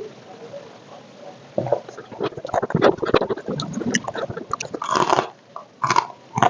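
Close-up chewing of crunchy food: irregular crisp crunches and wet mouth sounds, quieter at first and becoming dense from about one and a half seconds in.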